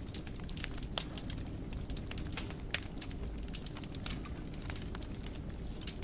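Wood fire crackling in a fireplace: frequent irregular sharp pops and snaps over a steady low rumble of the flames, with one louder pop a little under three seconds in.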